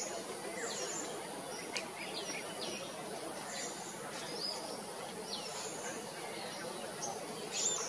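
Scattered high, short bird chirps sliding down in pitch, a few each second, over a steady background hum of outdoor noise.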